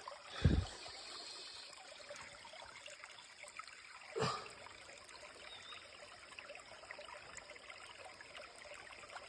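Shallow creek water trickling steadily, with two dull thumps, the loudest about half a second in and another about four seconds in.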